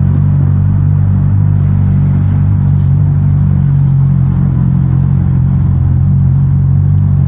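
Suzuki GSX-S 1000 GT's inline-four engine running through its stock exhaust at a steady engine speed, with a low, even drone.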